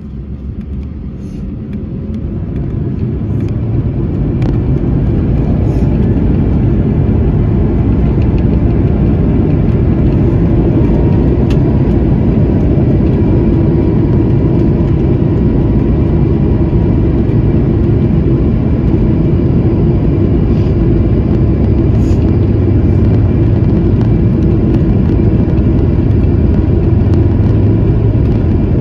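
Airbus A220's geared turbofan engines spooling up to takeoff thrust, the noise swelling over the first few seconds, then running loud and steady with a droning hum and a low rumble during the takeoff roll.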